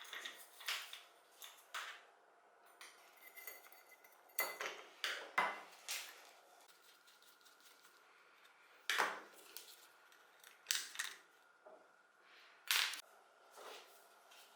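Small metal parts being handled: irregular clinks, knocks and clatters, some in quick clusters, over a faint steady high hum.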